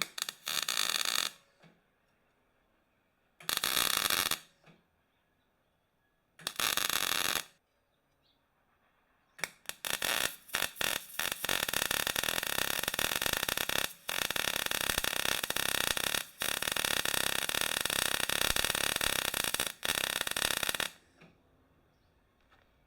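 Welding on 3 mm steel plate: three short bursts, each about a second, like tack welds, then a stuttering start and a long run lasting about ten seconds with a few brief breaks.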